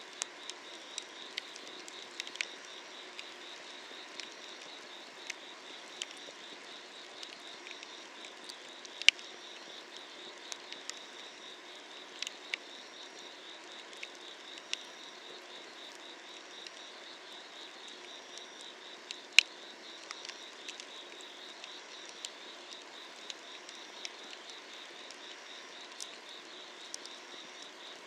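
Firewood crackling and popping as it burns, with sharp pops scattered throughout, the loudest about nine and nineteen seconds in. Under it runs a steady, pulsing chorus of night insects.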